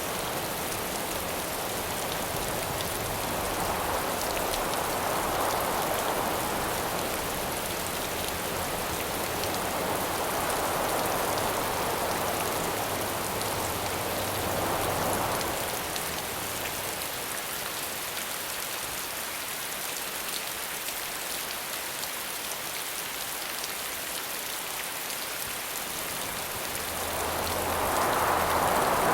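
Steady rain hiss with gusts of wind swelling and fading over it, three slow surges, the last building near the end.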